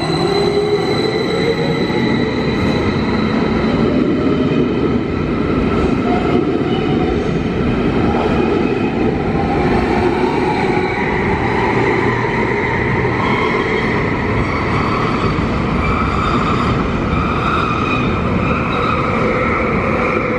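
Electric double-deck S-Bahn train pulling out along an underground platform: the whine of its electric traction motors rises in pitch as it gathers speed, over a steady rumble of wheels on rail, echoing in the enclosed station.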